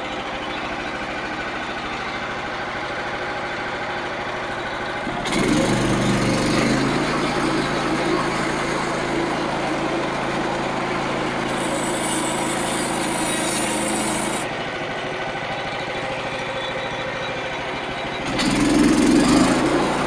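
Small gasoline engine of a Frontier OS27 portable band sawmill running steadily. It gets louder and harsher about five seconds in, drops back after about nine seconds, and swells again near the end.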